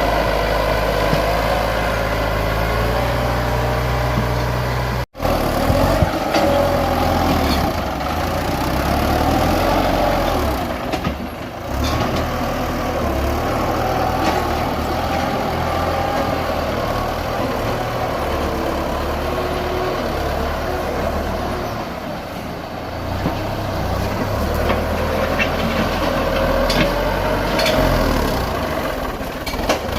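Tractor engine running steadily under load as it pushes soil to level the ground, its pitch rising and falling a little. The sound drops out for an instant about five seconds in.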